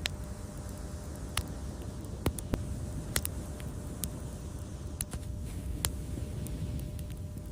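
Wood fire crackling: sharp pops at irregular intervals, about ten in all, over a steady low rumble of the flames.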